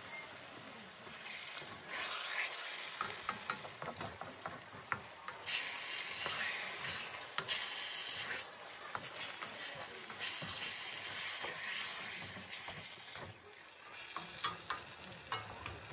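Sliced beef liver frying in a wok with onions and peppers, sizzling steadily, while a wooden spatula stirs it with many short scrapes and knocks against the pan. The sizzle swells from about two seconds in and is strongest in the middle.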